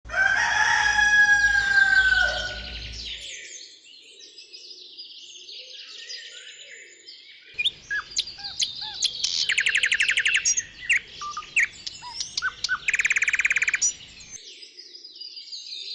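Birds chirping and singing: a loud call falling in pitch over the first two or three seconds, then short chirps from about eight seconds in, with two fast rattling trills a few seconds apart.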